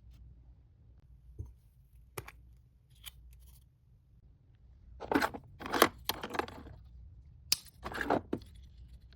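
Packaging being handled: a few faint clicks, then two runs of short crisp cutting or tearing sounds, as of scissors going through paper or tape, about five and seven and a half seconds in.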